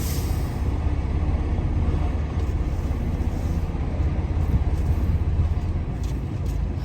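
Semi truck's diesel engine running steadily at low speed while the rig is maneuvered toward a loading dock, a steady low rumble.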